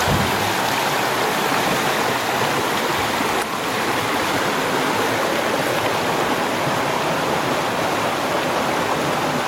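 Flowing river water rushing steadily, an even dense rush with a slight break about three and a half seconds in.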